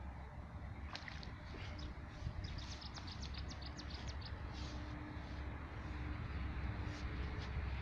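A songbird singing a fast trill of about a dozen short high notes, starting about two and a half seconds in, with a few scattered chirps around it, over a steady low rumble.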